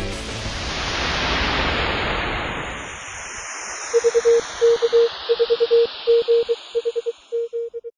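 Radio-style static hiss that thins and fades, then, about halfway through, a steady Morse code tone keying out short and long marks until it stops just before the end.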